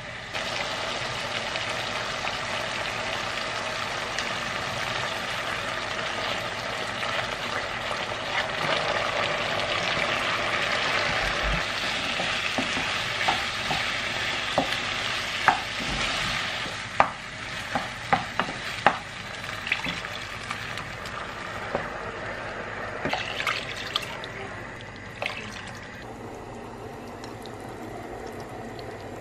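Food sizzling in a frying pan, with sharp taps and clinks of a utensil against the pan through the middle. The sizzle dies down near the end.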